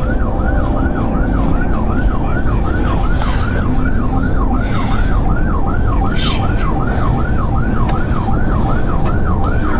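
Police car siren on a fast yelp, sweeping up and down about three times a second, over a heavy low rumble of engine and road noise from a patrol car speeding in a pursuit.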